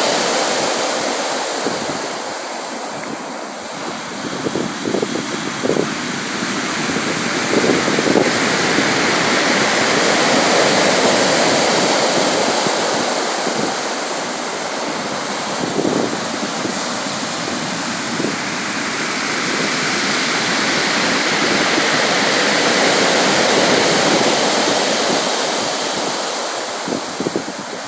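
Sea waves breaking and washing on the shore, a steady rush of surf that swells and eases every several seconds.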